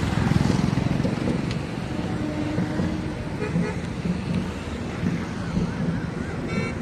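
Indian Railways LHB passenger coaches rolling past on the track in a steady rumble of wheels on rails, with a couple of short horn toots in the background.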